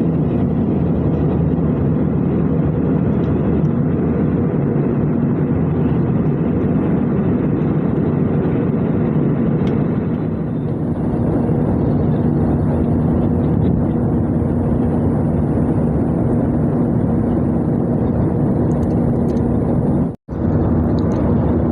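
Steady engine and airflow noise inside the cabin of an Airbus A320 in flight. A steady low hum joins about halfway through, and the sound cuts out for an instant near the end.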